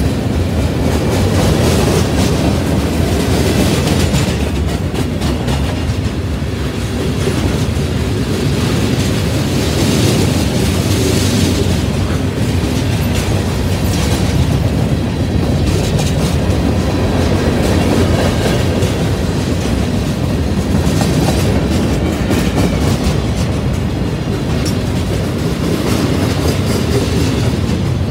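Freight cars of a CN train rolling steadily past: a continuous rumble with the clatter of steel wheels on the rails.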